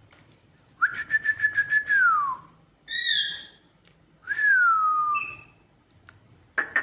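Pet parrot whistling and calling: a held whistle with a rapid flutter that glides down at its end, a short call, then a second whistle sliding down in pitch, with a few short high notes and a loud call near the end.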